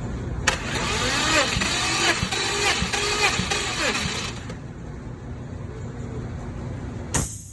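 Subaru 3.0-litre flat-six (H6) engine being turned over by its starter for a compression test, cranking for about four seconds from about half a second in, the pitch rising and falling with each compression stroke. A short burst of hiss comes near the end.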